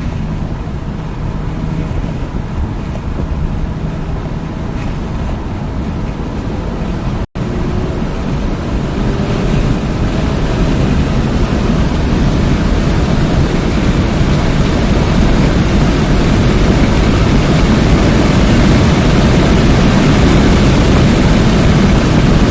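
Hyundai Elantra N's 2.0-litre turbocharged four-cylinder engine under way on a race track, mixed with heavy wind and road noise. The sound cuts out briefly about seven seconds in, then the engine note rises and the wind and road noise grow steadily louder.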